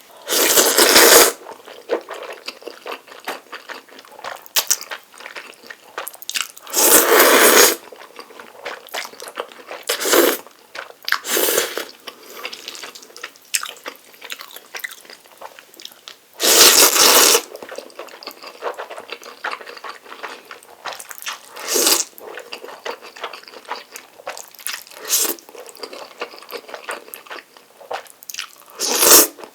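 Close-miked eating of Jjapaghetti instant noodles: wet chewing and mouth smacks throughout, broken by about eight louder bursts of noodle slurping, the longest near the start, at about seven seconds and at about seventeen seconds.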